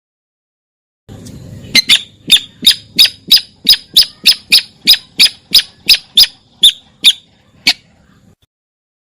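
Sintar bird lure call: a series of about seventeen sharp, high, clipped notes at about three a second, starting roughly two seconds in and stopping near the end.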